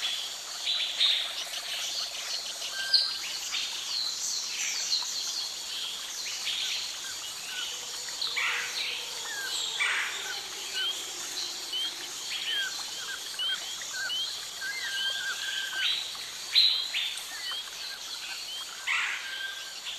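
Many birds calling at once in a rainforest-style soundscape: short chirps, hooked whistled notes and trills overlapping throughout, over a steady background hiss.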